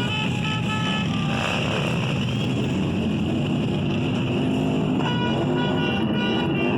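Motorcycle engines running as bikes ride past in a steady rumble, with music playing at the same time.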